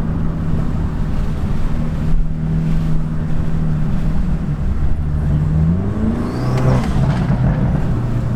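Hyundai Elantra N's turbocharged four-cylinder engine running steadily, then revving up about five seconds in and dropping in pitch at a gear change a little before seven seconds.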